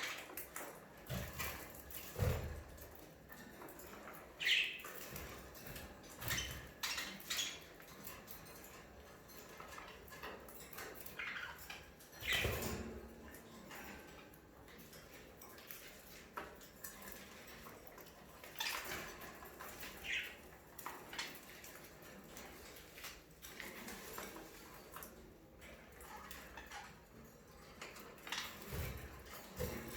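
Budgerigars chirping now and then in short calls, among scattered light clicks and knocks.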